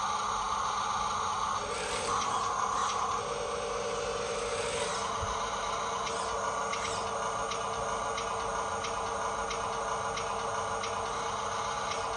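A toy RC dump truck's small electric motor and gears whirring steadily, with some scraping early on and an even ticking about twice a second from about halfway through.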